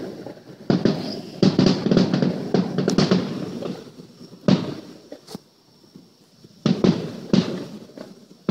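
Aerial fireworks going off in quick succession: several sharp bangs, each trailing off in crackling, with a short lull a little past the middle.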